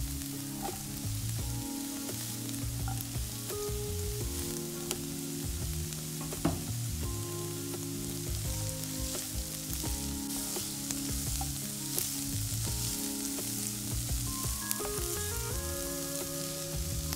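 Food sizzling as it fries in oil in a pan, with occasional sharp clicks of a utensil against the pan (one louder about six seconds in), over soft background music.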